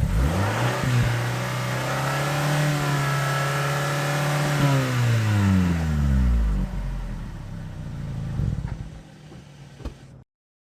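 A man's voice imitating a motor: a steady hum that slides down in pitch, like an engine winding down, then trails off into a low rumble. A small click comes near the end and the sound then cuts off.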